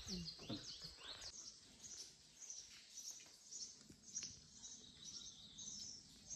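A small bird chirping faintly over and over, short high chirps about two or three a second.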